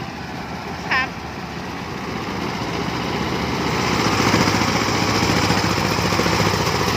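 Tractor engine running steadily while ploughing a field, growing louder about two seconds in and then holding level. A brief call from a voice about a second in.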